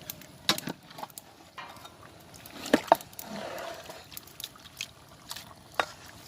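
Cooking utensils knocking and clattering against a pot in a few irregular sharp strikes, the loudest two close together midway. Just after them comes a brief wet stirring rustle.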